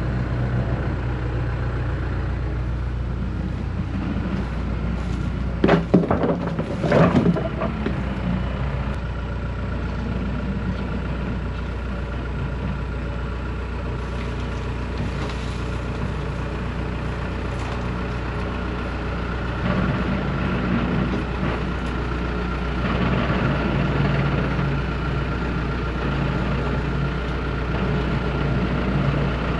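Tractor engine running steadily, with two short loud noises about six and seven seconds in, while it lifts and moves a load with its hydraulics.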